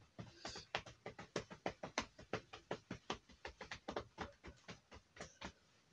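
Close-up eating sounds: a quick, irregular run of short wet clicks and smacks, several a second, from chewing with the mouth near the microphone.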